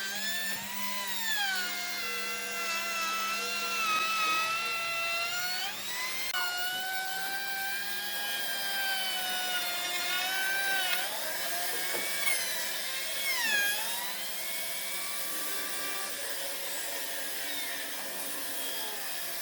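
Electric power tool running at high speed, a high whine that sags and recovers in pitch as the tool is loaded against wood.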